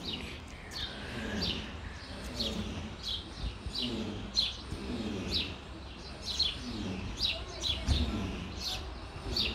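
A small bird singing a short falling chirp over and over, about twice a second, over a low background rumble.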